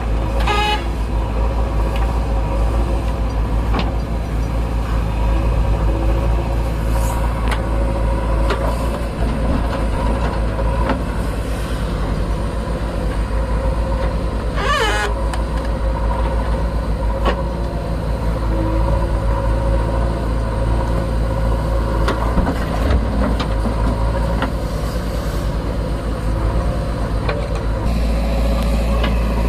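Heavy diesel engine running steadily, with scattered knocks and clanks. A brief wavering squeal comes about halfway through.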